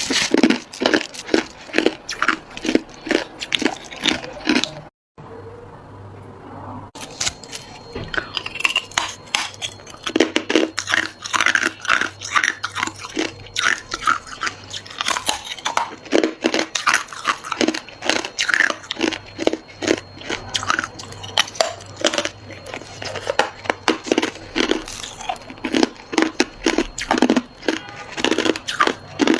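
A person biting and chewing hard ice: rapid runs of loud crunches and cracks, broken by a brief dropout about five seconds in.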